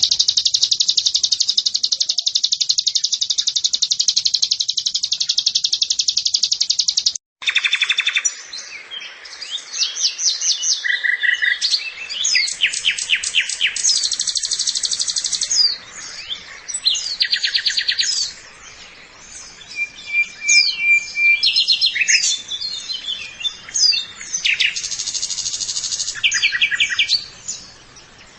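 White-eye (pleci) song from a bird-training recording: a fast, steady high trill, then after a sudden break about seven seconds in, a varied run of chirps, short rapid trills and whistled notes.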